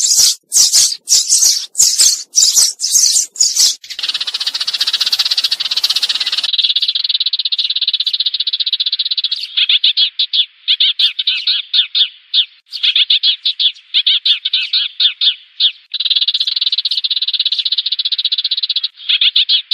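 Sparrows calling as a flock-calling lure: loud sharp chirps for the first few seconds, then a dense chattering chorus, then fast high trills repeated in runs of a second or more.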